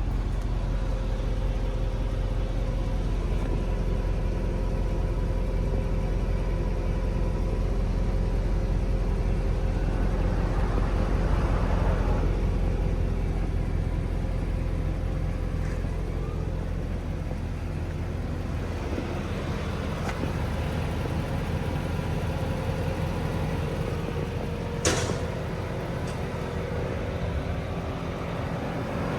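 Mercedes-Benz E63 AMG (W212) 6.2-litre V8 idling steadily with a deep, even rumble that eases slightly past halfway. Near the end there is a single sharp click.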